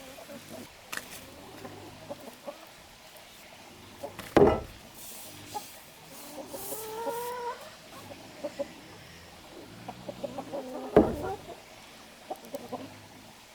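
Chicken calling, a drawn-out rising call near the middle, with other scattered clucks; two loud sharp knocks, about six seconds apart, stand out above it.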